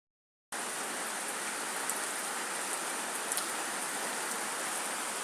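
Steady rain falling, with a few sharper drop ticks on a nearby surface.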